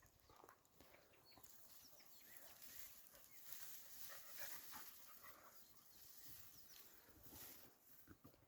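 Faint, distant dogs barking, with faint bird chirps.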